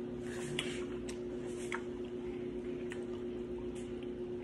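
Chewing a bite of plain fried chicken wing: scattered short clicks and crunches, over a steady low hum.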